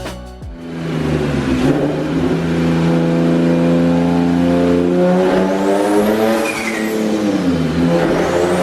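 Single-turbo Infiniti G37 coupe's V6 engine revving hard, with a high turbo whine that rises and falls twice in the second half.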